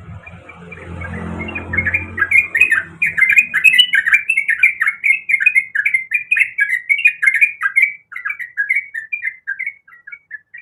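Trucuk (yellow-vented bulbul) singing a rapid, chattering run of short bubbling notes, several a second, that thins out near the end. A low rumble sits under the first few seconds.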